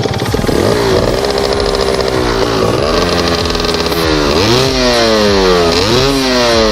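1994 Kawasaki KDX 250R's two-stroke single-cylinder engine being revved in blips, its pitch jumping up and sinking back several times.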